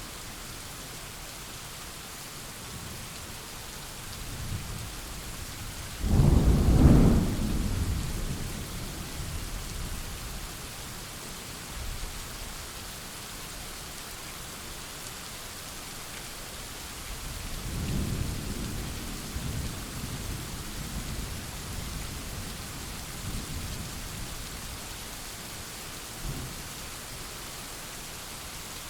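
Thunderstorm: steady rain hiss with a sharp, loud thunderclap about six seconds in that rumbles away over several seconds, then a softer rolling rumble of thunder around eighteen seconds and a brief low boom near the end.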